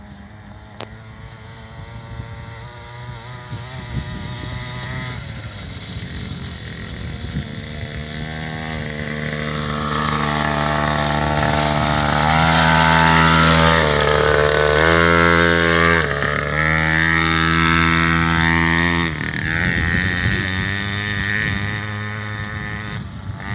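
Dirt bike engine running and being ridden, growing steadily louder to a peak past the middle, its pitch rising and dipping briefly twice, then easing off somewhat near the end.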